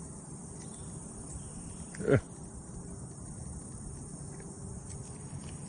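Steady outdoor background noise with a faint insect drone, and one short falling vocal sound about two seconds in.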